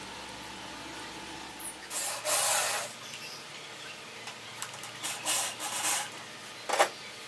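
Hand work on bird-cage parts: a few short scraping or rubbing strokes, then a sharp click near the end.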